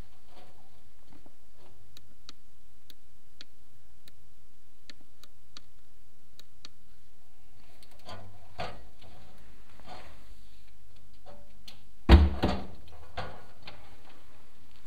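Chimney inspection camera gear clicking and knocking as it is lowered down a clay-tile flue: light scattered ticks at first, then a run of knocks, with one sharp loud knock about twelve seconds in and a few smaller ones after.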